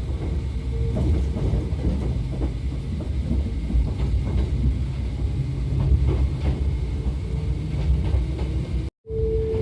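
Hakone Tozan Railway electric train, a steady low rumble with scattered clicks and knocks. A steady hum fades out early on, and the sound cuts out completely for a moment near the end, then the hum comes back.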